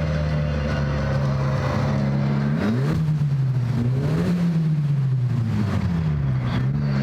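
2018 Jetta GLI's turbocharged four-cylinder engine running through an exhaust fitted with a cutout. It idles steadily, is revved up and down a few times from about three seconds in, then settles back to idle near the end.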